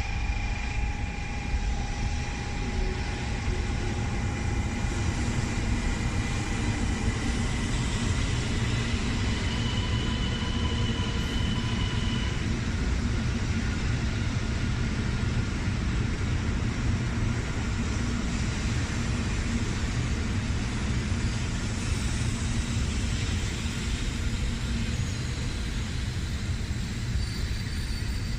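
A 700 series Shinkansen train pulling into the platform and slowing as it arrives: a steady rumble with a few high tones in the first half that shift and fade out.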